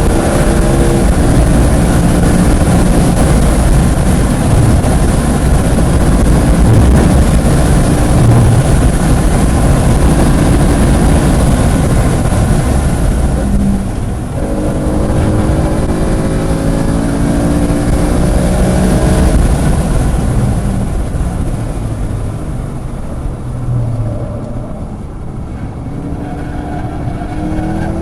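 Car engine heard onboard at full throttle on a race track, its pitch climbing through the revs, with a gear change about 14 s in and the climb starting again. About 20 s in it eases off and runs quieter, before coming back on the power near the end, all over a constant rush of wind and road noise.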